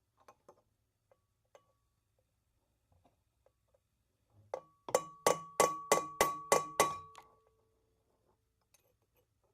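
Metal struck about seven times in quick succession, roughly three sharp taps a second, each leaving a clear ringing tone that carries between strikes. A few faint ticks come before it.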